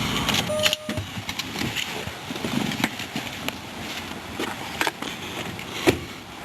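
2003 Ford Taurus engine being switched off, its low running sound dying away about half a second in, followed by a short beep and then scattered clicks and knocks.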